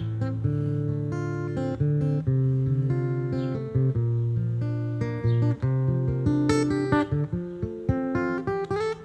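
Acoustic guitar playing a song's instrumental introduction: picked notes and chords ringing over held bass notes.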